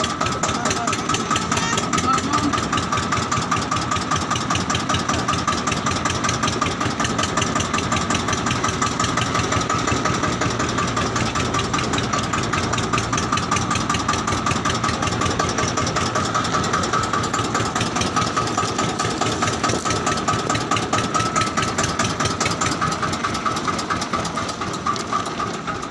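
Tractor engine running steadily, heard from on board: a fast, even chugging with a steady high whine over it.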